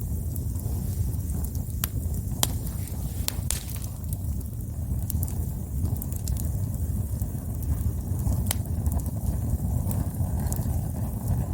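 Wood campfire burning: a steady low rumble with scattered sharp crackles and pops, a few clustered a couple of seconds in and another loud one near the end.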